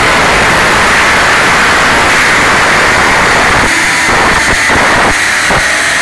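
Tuned Subaru Impreza's turbocharged flat-four engine running hard on a rolling-road dyno: a loud, steady din of engine, exhaust and rollers. The noise breaks up briefly a few times in the last two seconds.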